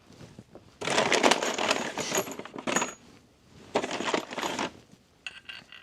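Loose metal bolts and small hardware rattling and clinking while being handled, in two bouts, the first about two seconds long and the second about a second long, with bright metallic rings.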